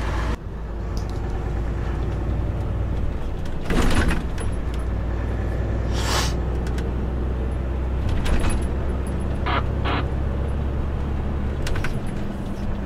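Heavy truck's diesel engine running steadily, heard from inside the cab, with a few short knocks and rattles and one brief hiss about six seconds in.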